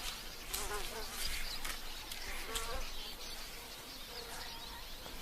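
Insects buzzing over a steady background hiss, with a few short, sharp high sounds.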